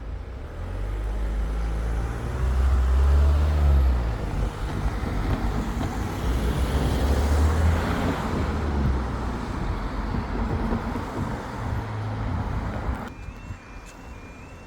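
Road traffic crossing the level crossing: a low engine rumble that swells, stays loud for several seconds and fades away. Near the end a faint high two-pitch warble starts up, the crossing's audible warning.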